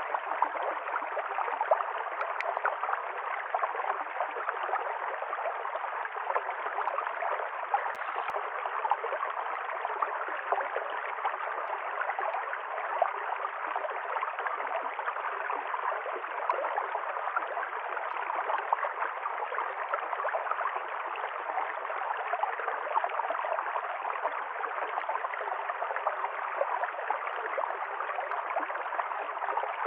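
River stream flowing steadily over rocks, a constant gurgling rush of water.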